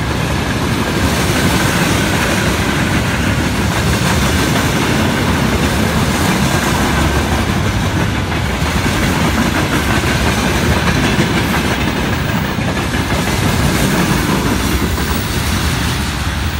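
A freight train's wagons (open gondola cars and a covered hopper) rolling past, their wheels rumbling and clattering over the rails in a steady, loud stream.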